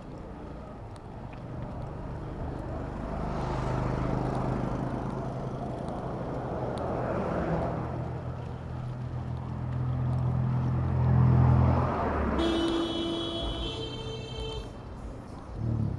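City road traffic heard from a bicycle: motor vehicle engines running and passing close by, swelling and fading, with a brief high, whistling tone about twelve seconds in.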